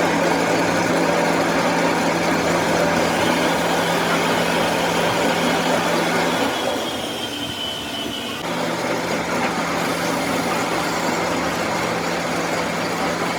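A workshop machine running steadily with a constant hum and a dense grinding or cutting noise. It eases off for about two seconds just past the middle, with a faint high whine, and then picks up again.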